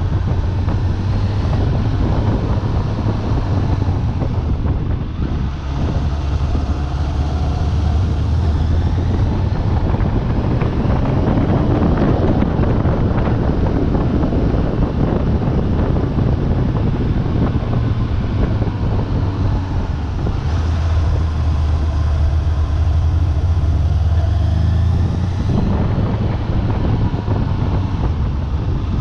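Suzuki Bandit 600's inline-four engine running through its original exhaust while the motorcycle is ridden, the engine note falling and rising several times with throttle and gear changes. Wind rushes over the microphone throughout.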